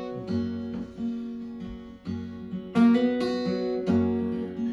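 Acoustic guitar strumming chords, several strokes about half a second to a second apart, each left ringing.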